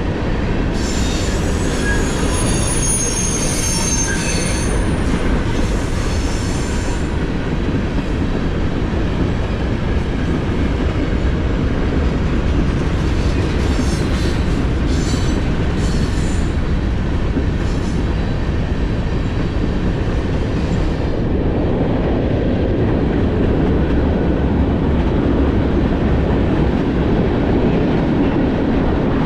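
Freight train cars rolling past with a steady rumble of wheels on rail, with high-pitched wheel squeal for several seconds near the start and in brief bursts again around the middle.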